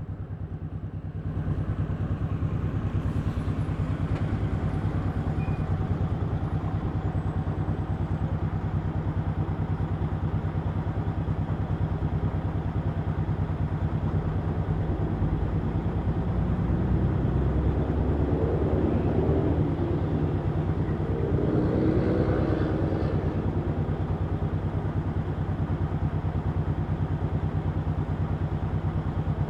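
1100cc V-twin motorcycle engine running on the road with a steady low note. It grows louder about a second and a half in, and pulls a little harder again between roughly 17 and 23 seconds in.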